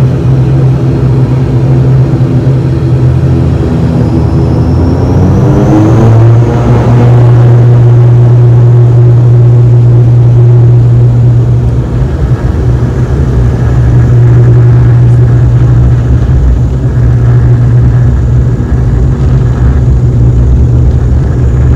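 ATR 72-500 turboprop engines and propellers powering up for the takeoff roll: a loud steady propeller drone whose pitch rises about five seconds in, with a thin rising whine above it, then holds steady at takeoff power.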